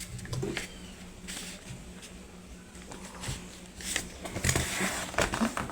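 A sheet of paper being handled and folded in half: soft rustling and crinkling, busier and louder about four seconds in.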